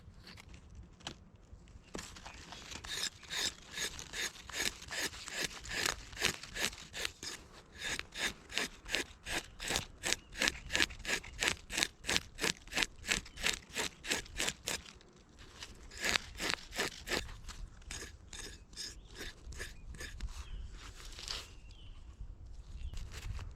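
Hand saw cutting through wood in quick back-and-forth strokes, about three a second, with a short pause about two-thirds of the way through before the sawing resumes and then stops.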